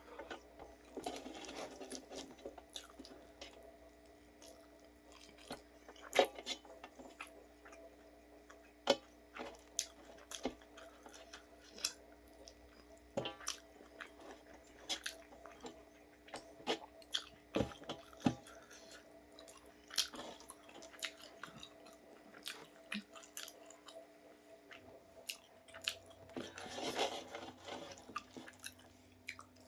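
A person chewing and biting food: irregular small clicks and crunches. A steady low hum runs underneath.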